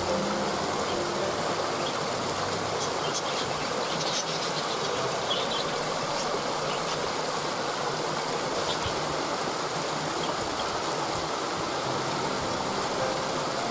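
Waterfall: a steady, even rush of falling water, with a few faint short high bird chirps in the first half.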